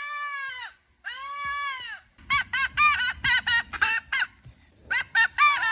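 Duck-style quacking calls sounded to attract water birds: two long drawn-out quacks, then two runs of short, quick quacks at about five a second.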